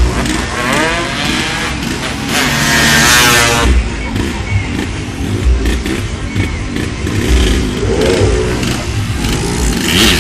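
Motorcycle engines revving hard and passing at speed, the loudest pass rising in pitch about two to four seconds in, with further revving bikes after it.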